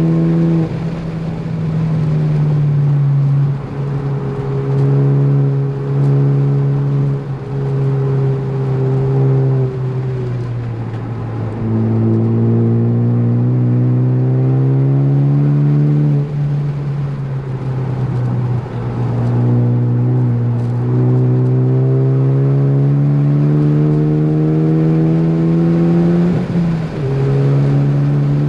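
Ford Focus ST's turbocharged four-cylinder engine under hard driving on track: it pulls up steadily in pitch, then drops back sharply with lifts and shifts, again and again.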